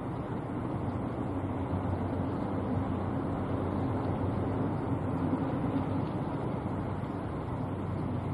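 A steady low engine drone with a faint hum, unchanging throughout.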